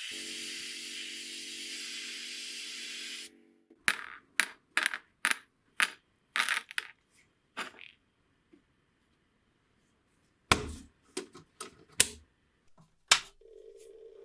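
A steady hiss with a low hum cuts off about three seconds in. Then comes a run of sharp, ringing metallic clinks, small metal clockwork parts set down or dropped onto a hard surface, and a few heavier knocks near the end.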